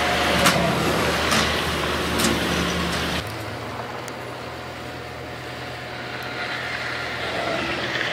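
Heavy diesel earthmoving machinery running, with a few sharp knocks over the first three seconds. About three seconds in the sound drops abruptly to a quieter, steady engine hum.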